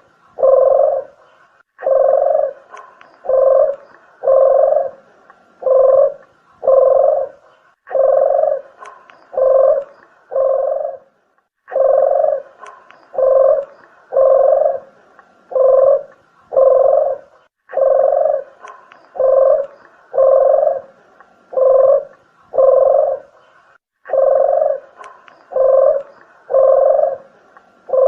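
Recorded cooing call of a deruk (puter geni) dove, played as a bird lure: low coos repeated about two a second in recurring phrases.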